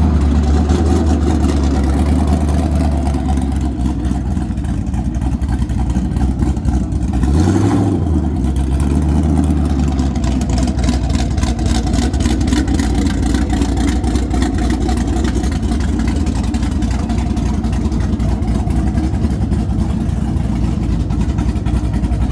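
Old car engines running loudly, with one engine briefly revving up and back down about seven or eight seconds in.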